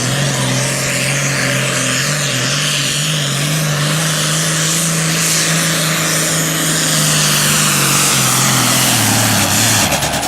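Super Farm class pulling tractor, a modified John Deere 4010, running its engine wide open under load while dragging the pulling sled, with a steady, loud note. Near the end the pitch steps down and the engine cuts off.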